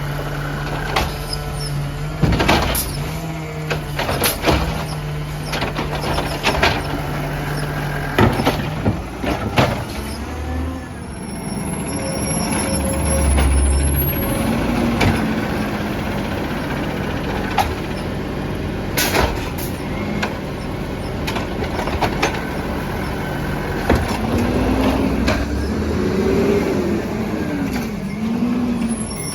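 Peterbilt 320 garbage truck running, with repeated metallic clanks and air-brake hisses. Near the end the engine pitch rises and falls several times.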